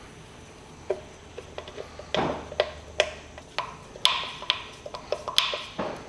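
Irregular light clicks and knocks of small parts and tools being handled, about a dozen over several seconds, a few with a short ring.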